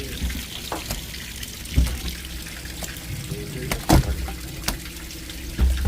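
Water running and splashing steadily, with a few dull low thumps about two seconds apart.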